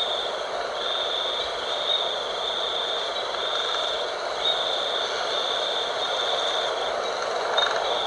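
Night wind blowing steadily, with a high-pitched trill that cuts in and out roughly once a second.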